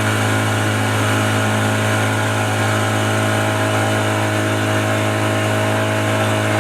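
Tour boat's engine running steadily, a constant low hum with no change in speed.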